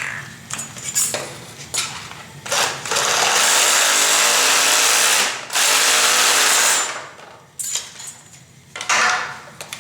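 Power saw cutting a 1-inch plastic drain pipe: the motor runs steadily for about four and a half seconds with a brief break in the middle, with a few short knocks of handling before and after.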